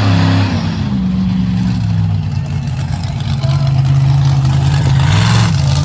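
Monster truck engine revving. Its pitch climbs and falls right at the start, holds steady at a lower pitch, then rises again briefly about five seconds in.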